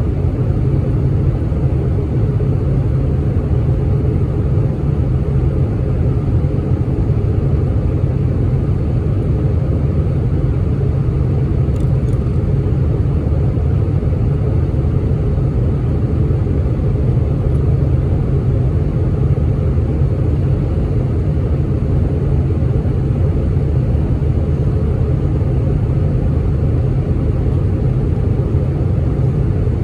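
Steady low rumble of an Airbus A319's jet engines, heard inside the passenger cabin.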